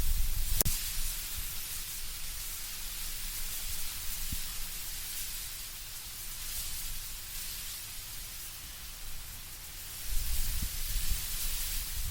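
Wind blowing through trees with leaves rustling, a steady hiss that swells and eases in slow gusts, with a low wind rumble growing stronger near the end. A single sharp click about half a second in.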